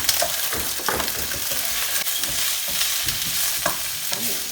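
Mange tout and baby sweet corn sizzling in hot oil with garlic as they are stirred in a wok, with a steady hiss and scattered clicks and knocks of the utensil against the pan.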